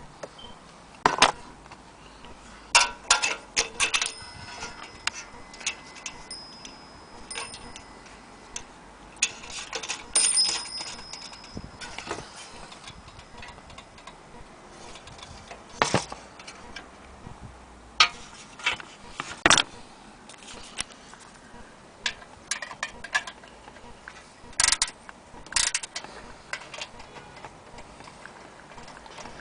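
Irregular clicks and knocks from an antique gilt mantel clock and its case being handled, with a faint high metallic ring twice.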